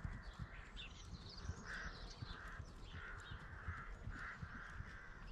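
Birds calling, crow-like calls of about a third of a second repeating irregularly, with small higher chirps, over a low irregular rumble.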